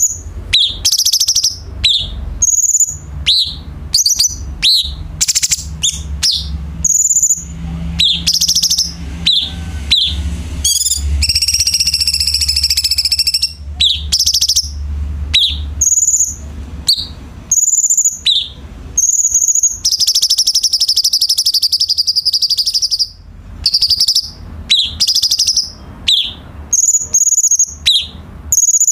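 Cucak cungkok songbird singing: a fast string of short, high, sweeping whistled notes, broken twice by a longer buzzing trill, once a few seconds before the middle and again a few seconds after it.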